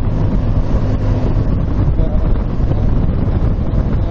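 Motorcycle engine running at a steady cruising speed, with heavy wind rush over the microphone.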